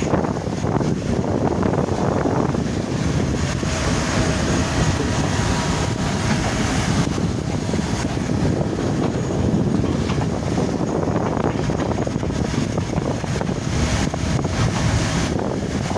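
Wind buffeting the microphone from a moving train, over the steady rumble of the train running on the rails.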